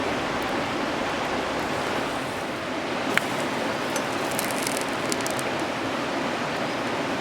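Wood campfire burning: a steady hiss with scattered sharp crackles and pops, one about three seconds in and a quick cluster a little past halfway.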